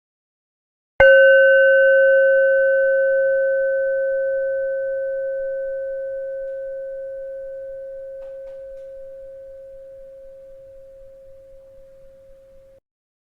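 A bell struck once about a second in, ringing with a clear tone and a few higher overtones, then fading slowly for about twelve seconds before cutting off suddenly.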